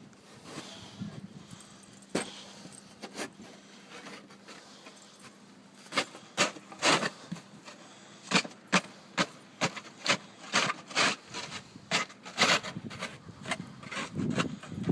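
Footsteps crunching in deep snow: a few faint crunches, then from about six seconds in a steady run of sharp crunches, about two a second.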